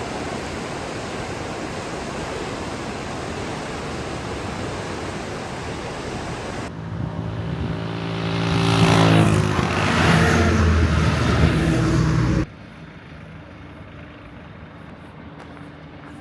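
A steady rushing noise, then a motor vehicle engine that grows loud and sweeps down in pitch as it passes close by. It cuts off suddenly a few seconds before the end, leaving a quieter low steady hum.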